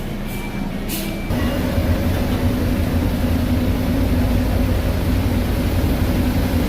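A river boat's engine running steadily with a low drone. It cuts in abruptly about a second in, after a moment of other background noise with a few short high beeps.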